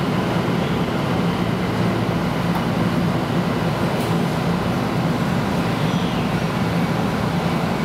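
Passenger train running at steady speed, heard from inside the carriage: an even rumble of wheels on rail with a steady low hum.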